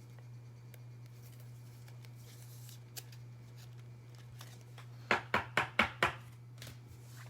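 Five quick, sharp clicks over about a second, from handling a trading-card pack as it is opened, over a steady low hum.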